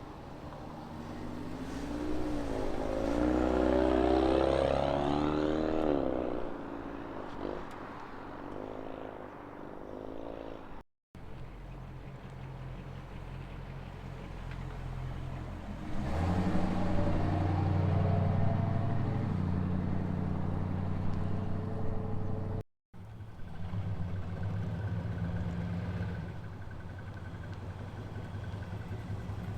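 Muscle car exhausts as cars drive out: one revs with its pitch rising and falling over the first few seconds, then deep low exhaust rumble from cars moving slowly past. The sound breaks off abruptly twice where clips are cut together.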